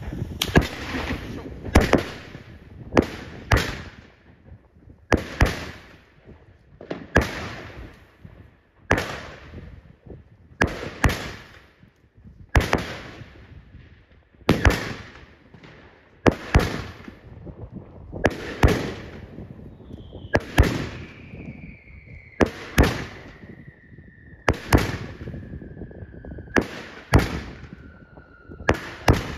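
A 19-shot consumer fireworks cake, Evolution Fireworks 'Fading Stars', firing shot after shot. Each shot is a sharp bang with a short fading tail, coming roughly every one to two seconds. Through the second half a faint tone slides slowly downward in pitch.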